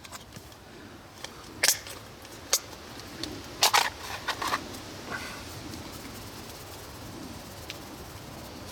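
A few short, sharp clicks and knocks, spread over the first half, over a steady faint hiss: cooking gear being handled while a pot of vegetables and water is readied over a campfire.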